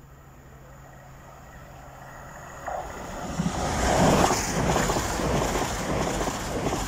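A Class 222 Meridian diesel multiple unit passing on the main line. The noise of engines and wheels on rail builds from about two and a half seconds in, is loudest about four seconds in and stays loud as the train runs past.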